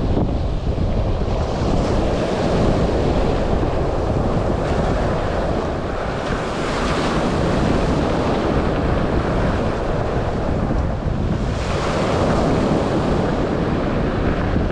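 Black Sea surf breaking and washing on the shore, with wind rumbling on the microphone. Two waves wash in louder, about halfway through and again near the end.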